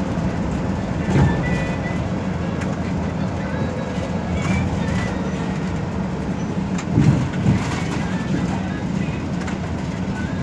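Steady low engine and road rumble heard from inside a moving express bus, with a couple of short bumps or rattles from the cabin, one about a second in and a louder one around seven seconds in.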